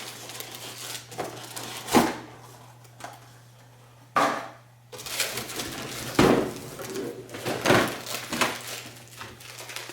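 Cardboard packaging being handled as a vacuum cleaner is lifted out of its box: several separate knocks and short scraping rustles, the longest about four seconds in. A low steady hum runs underneath.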